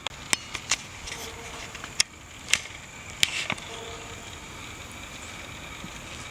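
A handful of sharp clicks and knocks, scattered over the first three and a half seconds, as tyres are handled and fitted onto an FG 4WD RC monster truck. A steady low hiss runs under them.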